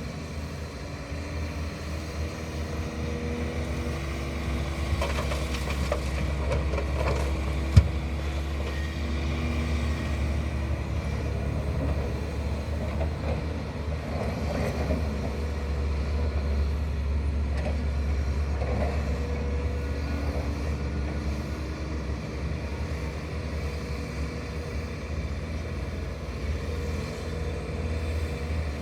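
Heavy diesel machinery, an excavator loading dump trucks, running with a steady low rumble, and a single sharp knock about eight seconds in.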